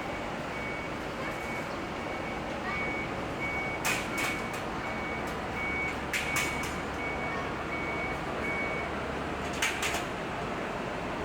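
Street traffic noise with a high electronic beep repeating about twice a second, stopping near the end. Three pairs of sharp clicks fall about four, six and ten seconds in.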